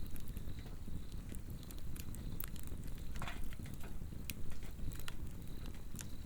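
Swedish torch log fire crackling, with irregular sharp pops and snaps over a steady low rumble of the flame and a short hiss about three seconds in. Insects trill faintly and steadily.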